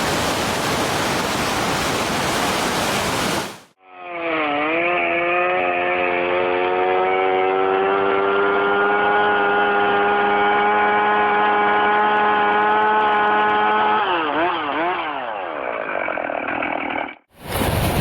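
Rushing water for the first few seconds, which suddenly cuts off. Then a small engine runs steadily at high speed for about thirteen seconds, its pitch dipping briefly at the start and wavering up and down near the end.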